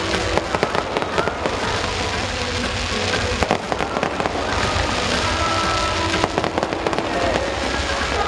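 Fireworks show: aerial fireworks bursting and crackling, many bangs in quick succession, with music playing underneath.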